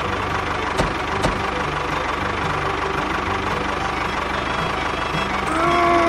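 Engine idling steadily with a low, even chug, and two sharp clicks about a second in.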